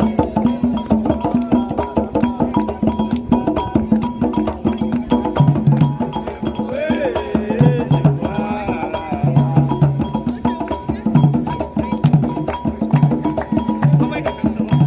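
Candomblé drumming: atabaque hand drums played in a fast, dense, steady rhythm, with a sharp struck beat keeping time and deep drum tones repeating through the second half. Voices sing over the drums about seven to nine seconds in.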